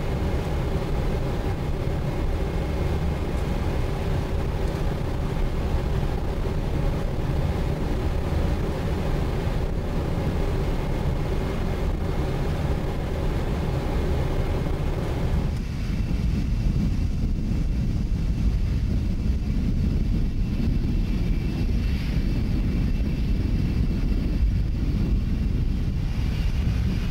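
Steady airflow and engine rumble on a Boeing 777-200's flight deck on final approach, with several steady whining tones over it. About fifteen seconds in, the higher tones and hiss drop away suddenly, leaving a deeper rumble.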